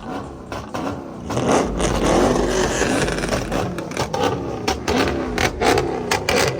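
Car engine revving hard, its pitch rising and falling over and over, with sharp exhaust pops cracking through the second half.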